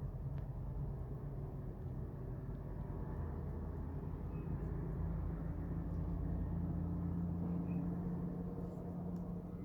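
Steady low engine rumble of a vehicle running.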